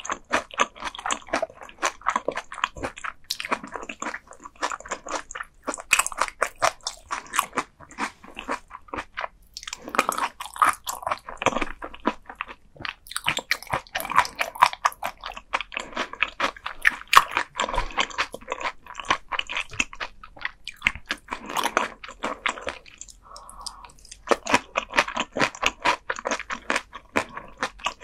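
Close-miked chewing of raw gizzard shad, a bony fish eaten bones and all: a steady run of rapid, crunchy bites and chews with a few short pauses.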